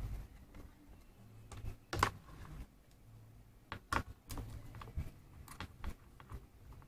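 Scattered light clicks and taps of a screwdriver and loose plastic and metal parts as an induction cooker is taken apart, with sharper knocks about two and four seconds in.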